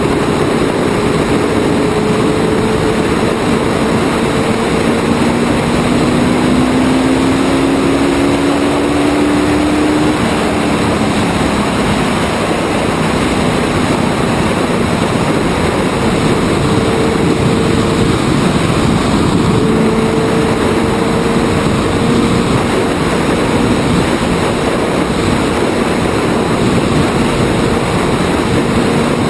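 Open-wheel Indy-style race car's engine running on track at about half throttle, its pitch rising slowly and falling back over a steady rush of noise.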